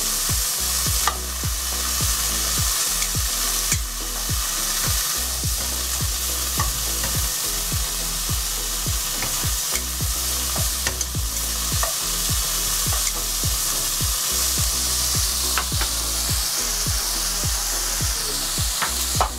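Broccolini frying in butter in a pan over low heat, a steady sizzle, with a few light clicks.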